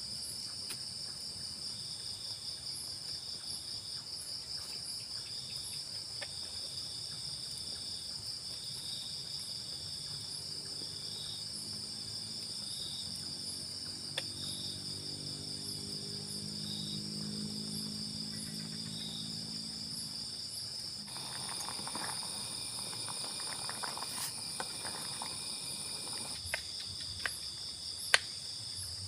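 Steady, high-pitched, pulsing chorus of crickets and other insects. Some light rustling and a few clicks join in over the last several seconds.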